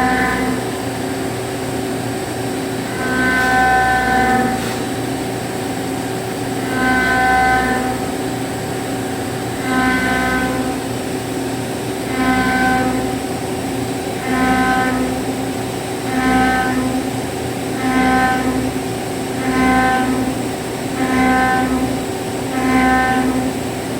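25 mm end mill rough-milling aluminum alloy: a steady machining hum with a pitched, ringing whine each time the cutter loads up in the cut. The whine repeats about every three seconds at first and comes closer together, about every second and a half, near the end.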